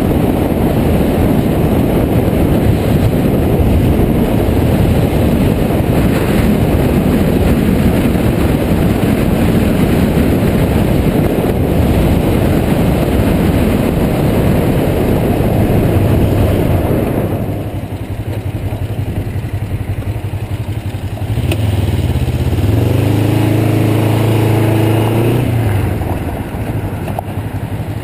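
Wind rushing over a chin-mounted helmet camera on a Kawasaki Ninja 500R at riding speed, with its parallel-twin engine running underneath. About seventeen seconds in the wind noise drops away as the bike slows, leaving the engine's steady low note, which swells for a few seconds before settling again.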